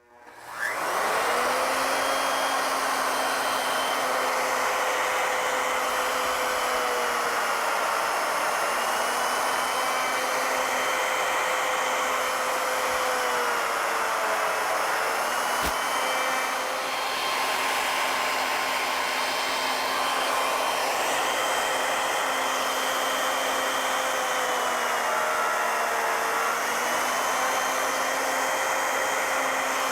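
Router motor on an ornamental mill spinning up and then running steadily while milling wood. Its pitch sags briefly several times as the bit takes load, and there is a single click about halfway through.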